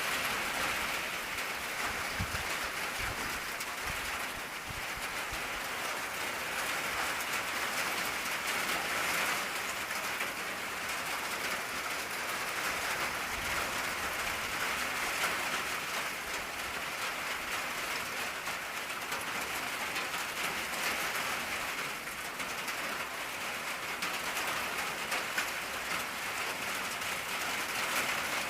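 Steady rain falling on an old tin roof, a dense even patter.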